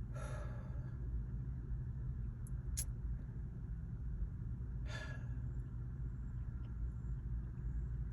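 Steady low outdoor rumble, with two short breaths, one just after the start and one about five seconds in, and a faint click near the middle.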